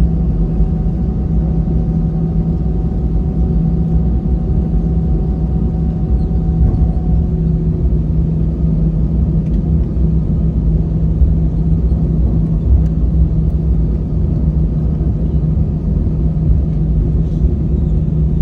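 Airbus A320 cabin noise: a steady low engine rumble with a constant hum, and a fainter higher tone that fades out about seven seconds in.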